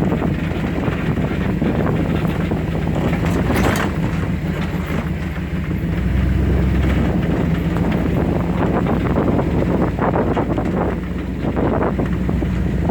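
Two-wheel-drive Chevy's engine running as it drives a rough off-road mud trail, its pitch shifting with the throttle, with the body knocking and rattling over the bumps.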